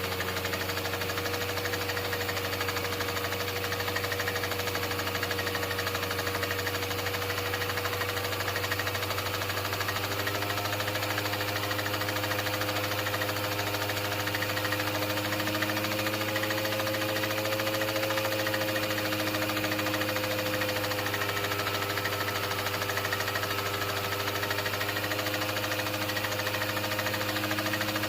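Steady mechanical hum with an even hiss and a few faint tones that drift slowly in pitch.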